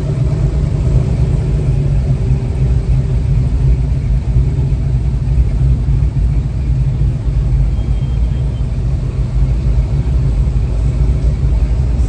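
Steady low rumble of a truck engine running nearby.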